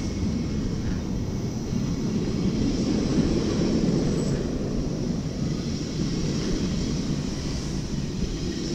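NS ICMm electric multiple unit pulling out and rolling past, a steady low rumble.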